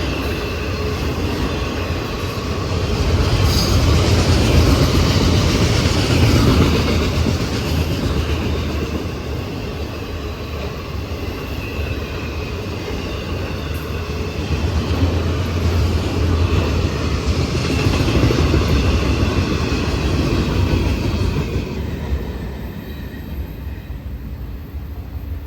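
A train passing close by, its wheels running on the rails with a steady rumble and clatter. The sound swells twice and eases off near the end.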